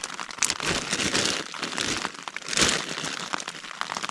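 Plastic food packaging crinkling and rustling as it is handled, in irregular bursts with a louder crackle about half a second in and another past the middle.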